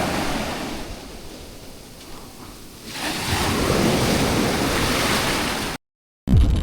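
Sea surf washing on the beach, with wind buffeting the microphone. The wash eases off, swells up again about three seconds in, then cuts off suddenly near the end.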